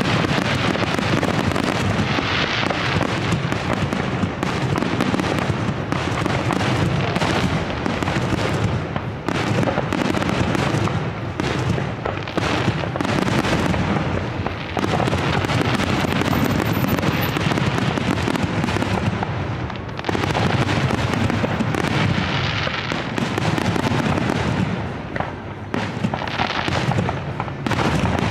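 Fireworks grand finale: aerial shells bursting in rapid, overlapping succession, a near-continuous barrage of bangs with only brief lulls.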